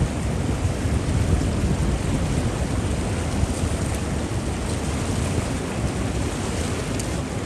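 Strong gusting wind buffeting the microphone: a steady low rumbling noise with no break.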